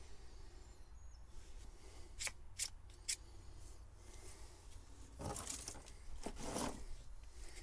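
Three quick sharp clicks, then two longer rustling, scraping stretches: hand-work noise from pulling old wiring out of a boat.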